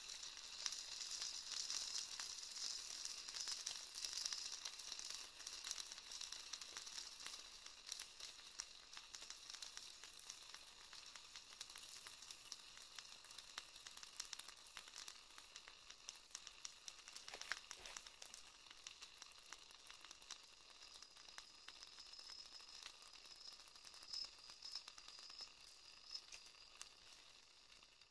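Campfire burning: a faint, steady sizzling hiss with many small crackles, slowly dying down toward the end.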